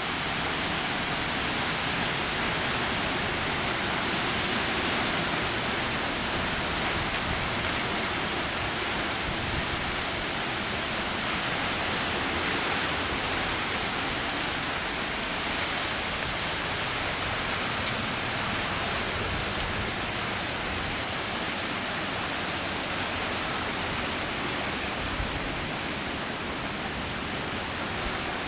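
Hurricane wind and heavy rain: a steady, unbroken rush of noise with no let-up.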